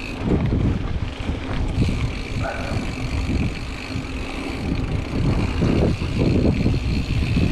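Wind buffeting the microphone of a mountain bike rider's camera while riding, over the rumble of the bike's tyres on the trail. Two faint steady high tones run along above it.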